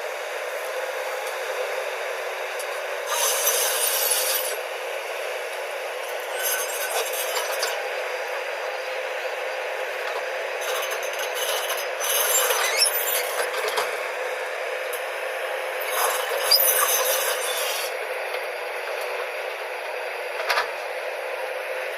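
JCB backhoe loader working mud: a steady machine drone, thin with no low end, broken by four bursts of scraping and rattling, about 3, 6, 11 and 16 seconds in.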